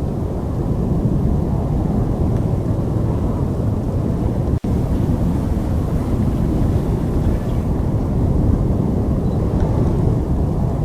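Loud, steady low rumble of storm wind, broken by a split-second gap near the middle.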